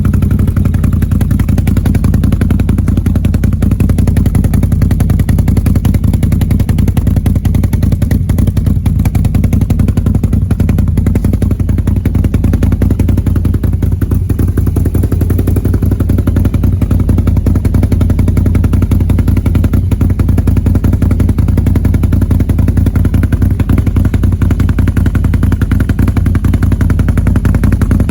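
Can-Am Renegade 850's V-twin engine idling loud and steady through an aftermarket Yoshimura exhaust, with an even, low, pulsing note.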